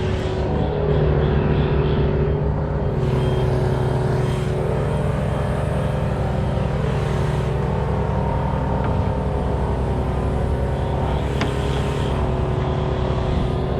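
An engine running steadily at a constant speed, with a brief click about eleven seconds in.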